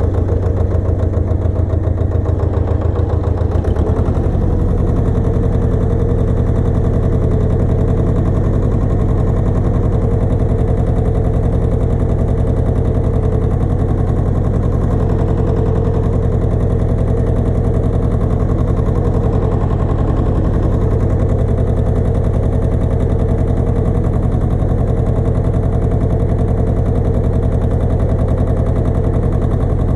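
Pasquali 980 EX tractor engine running steadily, its note changing about four seconds in.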